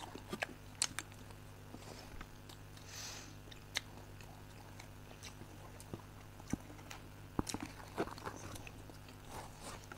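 People chewing and eating chocolate cake, with soft mouth noises and scattered sharp clicks, over a steady low hum.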